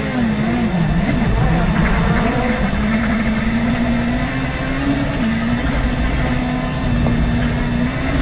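WRC rally car engine running hard under load, its pitch dropping and climbing again with gear changes about a second in and about five seconds in.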